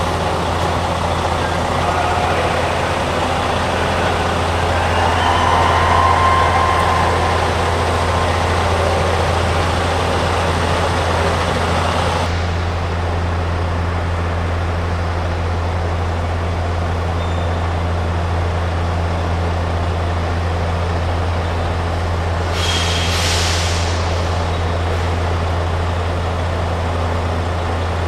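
Semi-truck diesel engine running with a steady low drone; a wider noisy rush cuts off suddenly about twelve seconds in. A short burst of air hiss comes near the end.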